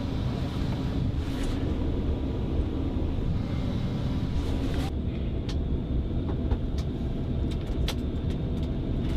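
Steady low rumble of vehicle noise heard from inside a private jet's cabin. About halfway through, the higher hiss drops away and a few faint clicks follow.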